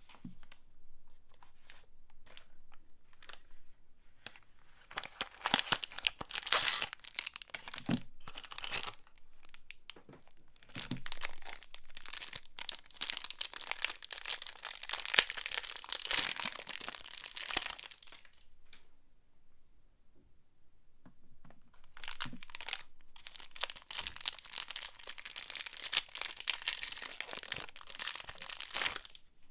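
Soap packaging being unwrapped by hand: wrappers torn open and crinkled in three long stretches, with quieter handling rustles between them.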